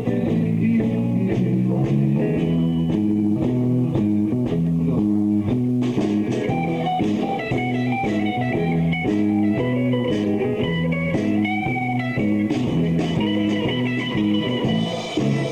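Live blues-rock band playing an instrumental passage: electric guitar lines with bent notes over a stepping bass line and a steady drum beat.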